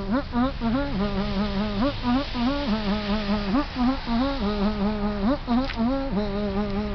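A person humming a tune in a low voice, mostly holding one note with quick dips and rises between.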